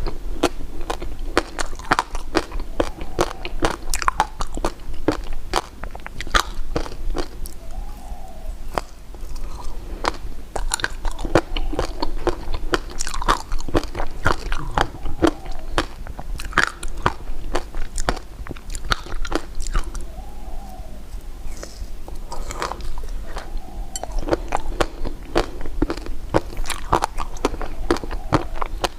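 Close-miked biting and chewing of hard sugar candy, with many sharp, irregular crunches and cracks.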